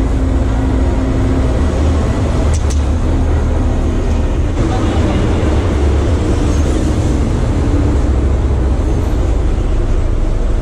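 Motorcycle engine idling steadily, with a sharp click about two and a half seconds in.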